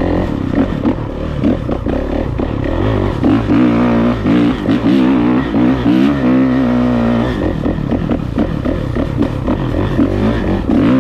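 Dirt bike engine being ridden off-road, its pitch rising and falling as the throttle is opened and eased off, with clatter from the bike over rough ground.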